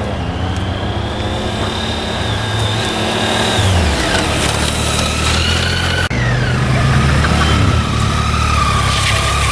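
Motorcycle engine running at low speed, its revs rising and falling several times.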